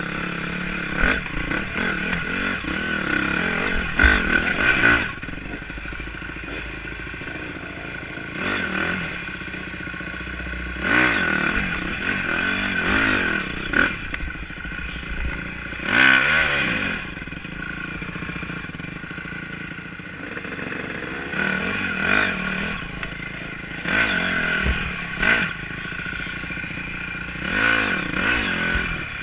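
Honda 250 enduro dirt bike engine revving up and falling back again and again, about seven times, as it is ridden over rough trail, with clattering and rattling throughout.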